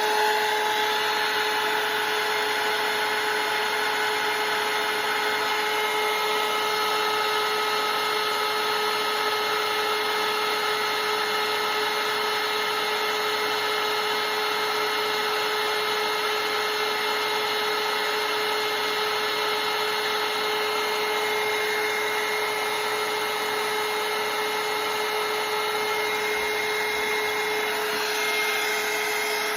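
Electric hair dryer running steadily on high, a constant motor whine over the rush of air, drying a freshly painted layer of acrylic paint.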